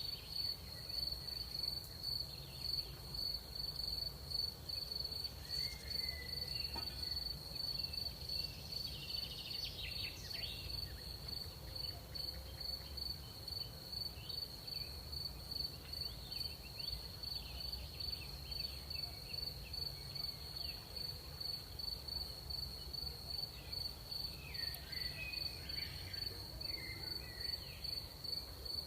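Crickets chirping at night: one high, steady, evenly pulsing chirp, with faint scattered chirps of other insects and a low background rumble.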